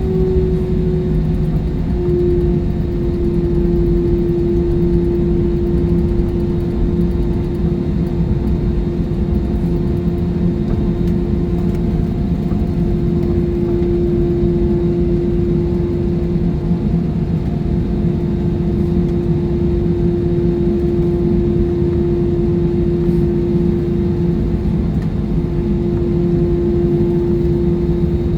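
Jet engines of an airliner heard inside the cabin: a steady roar with a humming engine tone that drops slightly in pitch in the first couple of seconds, then holds.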